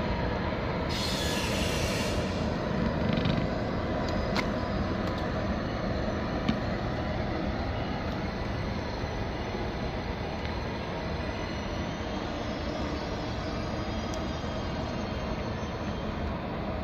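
ICE 1 high-speed train rolling slowly over the station tracks with a steady rumble. About a second in, a brief high-pitched wheel squeal rises over it.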